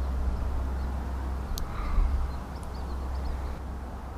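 Outdoor ambience: a steady low rumble with a faint hiss, and a single sharp click about a second and a half in.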